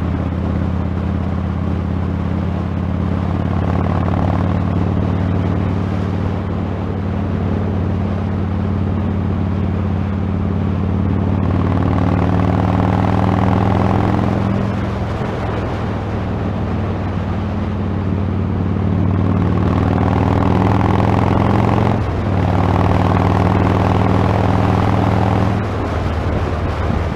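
Motorcycle engine running steadily while riding, with a constant rush of wind noise on the helmet camera's external microphone. The engine note shifts a few times and dips briefly about 22 seconds in.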